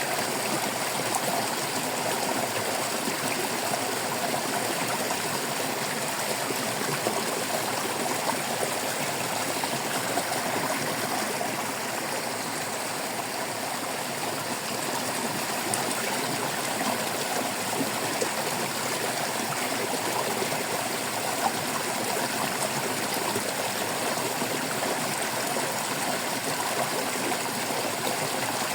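Water babbling steadily over stones in a stream, a continuous even splashing and trickling.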